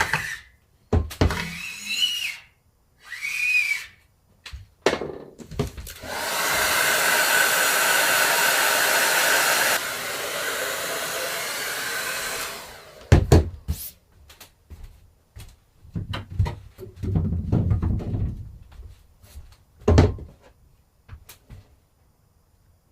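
A hair dryer blowing for about seven seconds, stepping down to a lower setting partway through, as used to dry a silk screen in plate making. Before it come a few short squeaky strokes, and after it come scattered knocks and clatter of handling.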